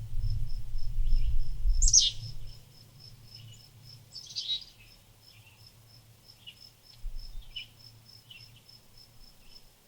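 Small birds chirping, with two loud sweeping chirps about two and four and a half seconds in and several softer short chirps between. A steady insect chirp pulses about three times a second under them. A low rumble fills the first couple of seconds and then fades.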